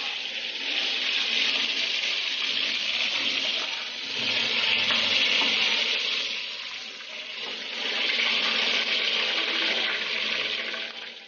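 Chicken pieces frying in hot oil in a pan, a continuous sizzle that swells and dips in waves, with two dips. The chicken is being fried only to a half-cooked stage.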